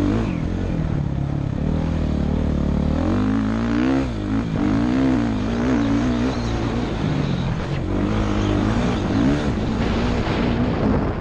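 Motocross dirt bike engine heard from the rider's helmet, revs rising and falling again and again as it is ridden around the track.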